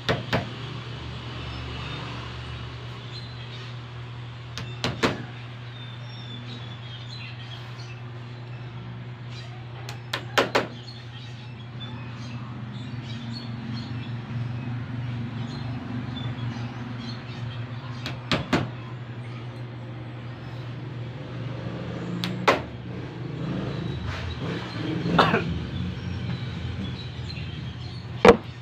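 Sharp clicks or knocks, often doubled, every few seconds over a steady low hum.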